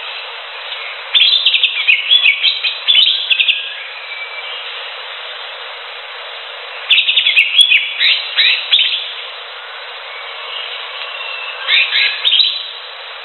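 Greater green leafbird (cucak hijau) singing: three bursts of rapid, varied chirping phrases, each one to two and a half seconds long, over a steady background hiss.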